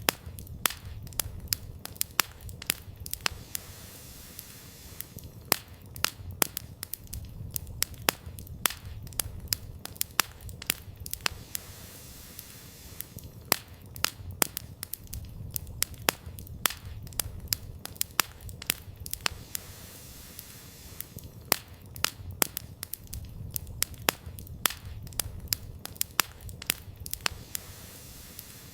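Wood fire burning, with irregular sharp crackles and pops from the firewood, several a second, over a low rumble that swells and fades every few seconds.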